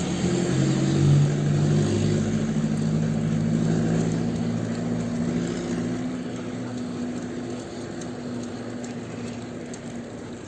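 A motor vehicle's engine running with a steady hum that slowly fades as it moves away.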